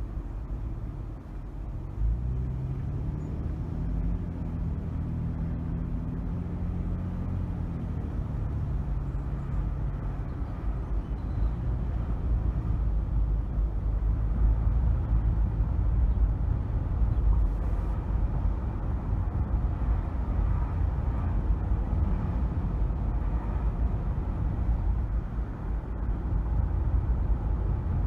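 Car driving with a low engine and road rumble. About two seconds in it pulls away, the engine note climbing for several seconds, then giving way to steady tyre and road noise.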